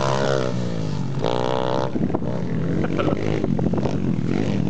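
Small four-stroke pit bike engines running. One drops in revs, is blipped up again about a second in, then runs unevenly, while a steady lower engine note carries on underneath.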